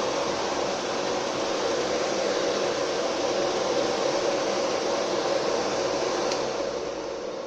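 Two industrial blower fans in a homemade Lada Niva heater-fan housing running at full speed, giving a steady rush of air. A click comes about six seconds in, and the sound then begins to die away.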